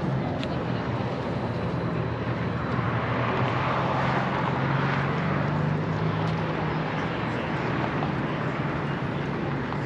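Steady low hum of running engines, with a broader rushing engine sound that swells and fades about halfway through, as of a vehicle going past.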